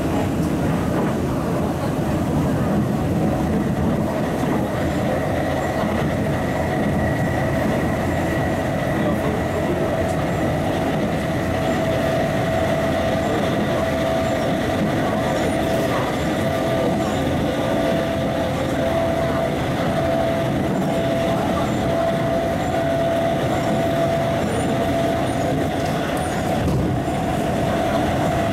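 MTR East Rail Line MLR electric multiple unit running along the line: a steady rumble of wheels on track with a steady whine held at one pitch.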